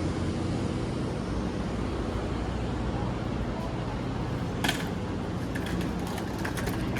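Steady low rumble of a high-speed train. A sharp clack comes about four and a half seconds in, followed by a short run of lighter clicks.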